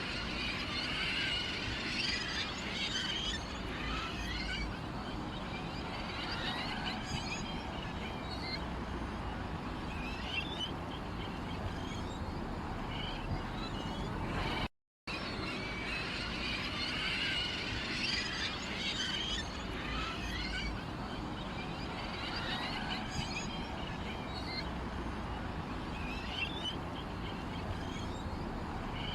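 Small birds chirping and twittering in a dense chorus of short high calls over a steady low background. It is a short recording looped, repeating about every 16 seconds with a brief gap.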